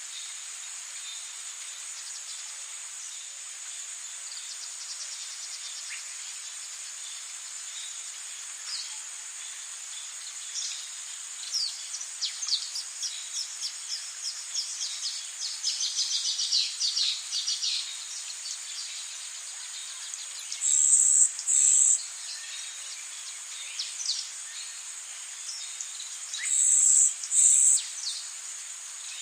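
Rainforest ambience: a steady high-pitched insect drone, with a run of rapid chirping calls that builds up through the middle. Twice in the second half a loud, shrill call of two quick notes stands out above the rest.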